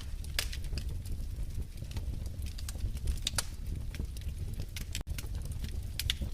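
Wood fire crackling in a fireplace: a steady low rumble of burning with scattered sharp pops and snaps at irregular intervals. The sound cuts out for an instant about five seconds in.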